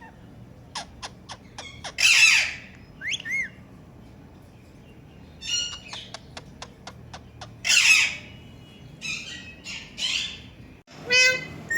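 Pet parrot squawking harshly, with runs of quick sharp clicks between the squawks and a short rising chirp. Near the end a fast rattling trill.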